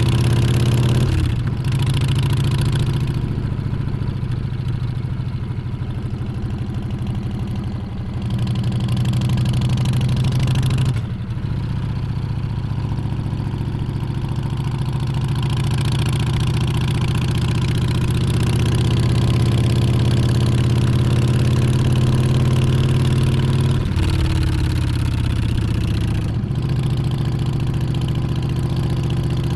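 Harley-Davidson Street Bob 114's Milwaukee-Eight V-twin engine running under way, its pitch rising and falling with the throttle. The engine note breaks off briefly a few times, about a second in, near the middle and twice near the end, as at gear changes.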